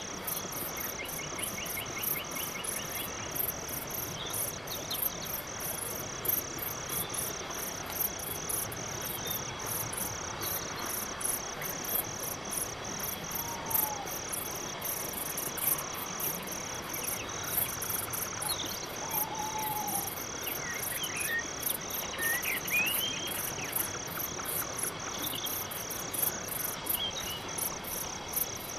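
Crickets chirping in a steady, even rhythm of high pulses, with a few short, faint bird calls scattered over it.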